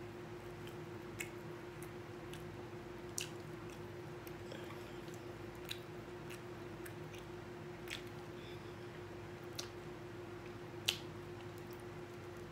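A person eating baked chicken off the bone with their fingers: chewing, with sharp wet mouth clicks every second or two, the loudest near the end, over a steady low hum.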